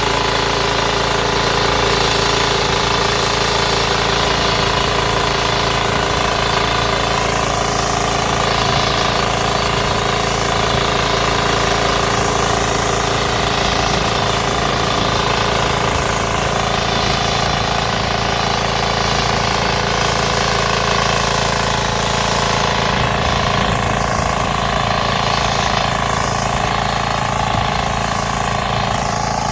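9 hp diesel engine running steadily at an even speed.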